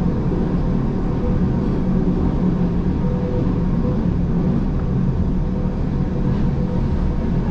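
Gornergrat Bahn electric rack-railway train running along the line: a steady low rumble from the motors and running gear, with a faint higher hum that comes and goes.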